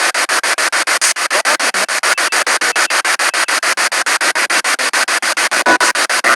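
Spirit box radio sweeping through stations: loud static chopped into short bursts about seven or eight times a second, with brief snatches of broadcast tone near the end.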